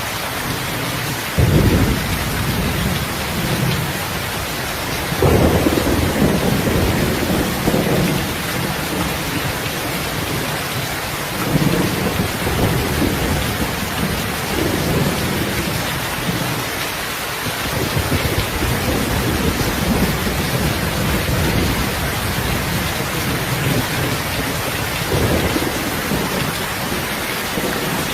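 Steady heavy rain with rolls of distant thunder: a sudden low rumble about a second and a half in, then longer rumbles swelling and fading several times.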